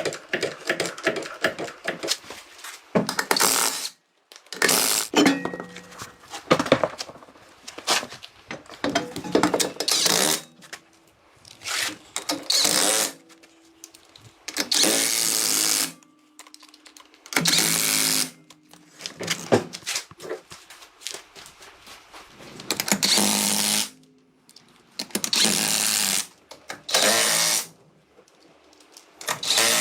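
A power tool run in short bursts of one to two seconds, on and off about a dozen times, with knocks and clicks of handling between the bursts.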